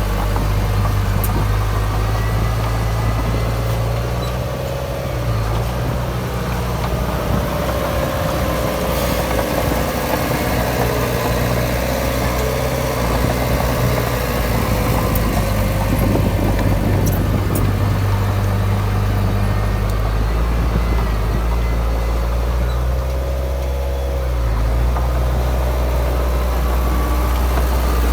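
Heavy diesel engine of earthmoving machinery running steadily, its pitch rising and falling slightly now and then, with a few faint clicks.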